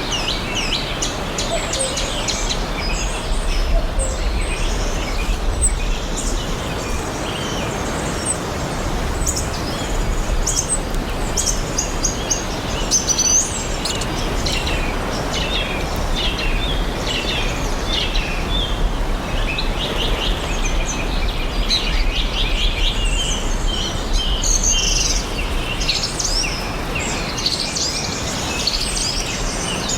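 Several songbirds chirping and singing in a forest chorus, with many overlapping short chirps and trills, over a steady low background rumble.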